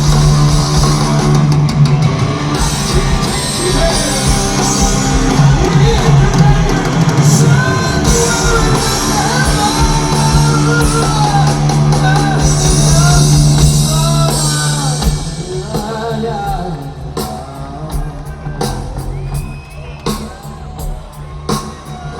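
Live heavy metal band playing in a large hall: loud distorted guitar, bass and drums under a bending melodic line. About 15 seconds in, the music drops to a quieter, sparser passage with separate drum and cymbal hits.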